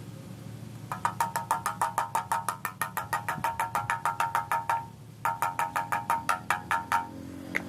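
Rapid, evenly spaced clicking, about seven clicks a second, in two runs: about four seconds, a short break, then about two seconds. A low steady hum lies underneath.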